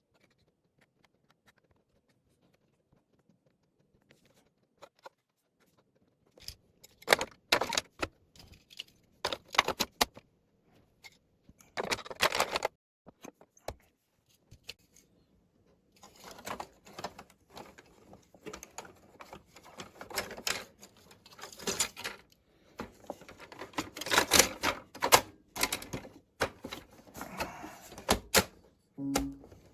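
Plastic parts and the rubber key contact strip of a Casio CTK-6300IN keyboard being handled and fitted back during reassembly: irregular clicks, taps and short scrapes, starting about six seconds in.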